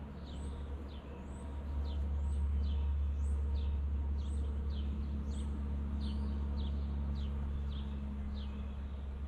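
Honeybee swarm buzzing as a low steady hum that swells about two seconds in, while a bird repeats short downward chirps about twice a second.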